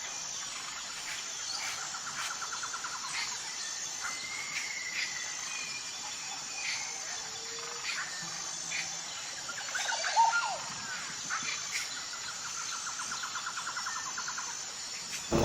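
Wild birds calling and chirping with scattered short notes and whistles, including two rapid trills, one near the start and one near the end, over a steady high-pitched hiss.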